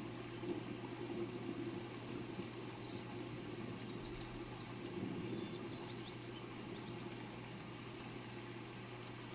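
Steady rain falling, with a few faint, short bird chirps in the middle.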